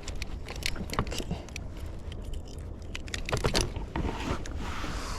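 Scattered sharp clicks and knocks of close-up handling, with a cluster of them about three and a half seconds in, over a steady low rumble.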